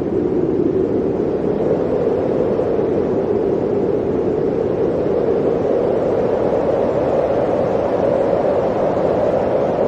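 Blizzard wind blowing steadily, a dull, low howl whose pitch drifts slightly upward.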